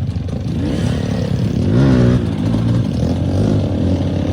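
Trail motorcycle engine running, revved up and back down about two seconds in.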